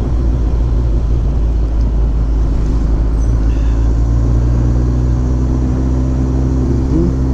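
Kawasaki ZX14R's inline-four engine running steadily at a constant pitch, with a brief small rise in pitch near the end.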